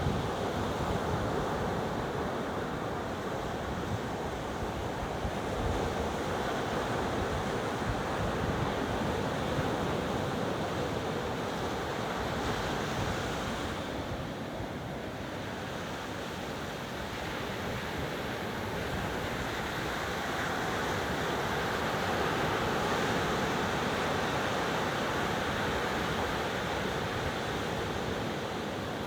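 Ocean waves washing onto a beach, a continuous surf hiss that swells and eases slowly, quieter for a few seconds midway and building again after. Some wind noise on the microphone.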